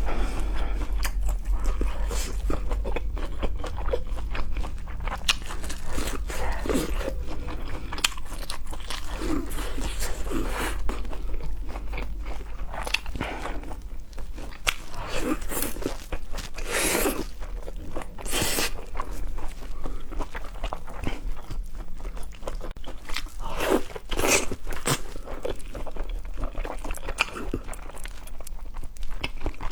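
Close-miked eating of seafood: repeated crunchy bites and wet chewing, with a few louder crunches in the middle.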